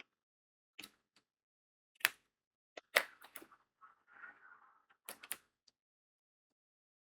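Crystal diamond-painting drills being pressed onto the adhesive canvas with a drill pen: a series of sharp, irregular clicks, a few in quick succession. About four seconds in comes a brief softer rattle, like drills shifting in the plastic tray.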